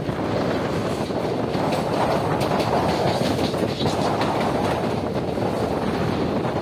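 Express passenger train's coaches running along the track, heard from aboard: a steady rolling rumble with wheels clattering over the rail joints.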